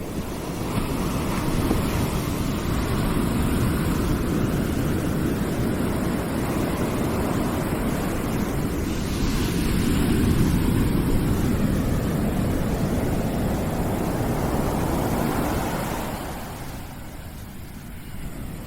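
Steady rushing noise, heaviest in the low end, swelling slightly midway and easing off near the end.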